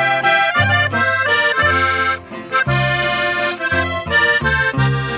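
Norteño button accordion playing the instrumental melody between sung verses, over a bass line of short changing low notes.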